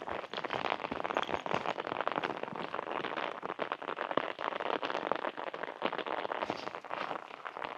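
Rain striking an open umbrella close overhead: a dense, irregular stream of sharp drop hits that never lets up.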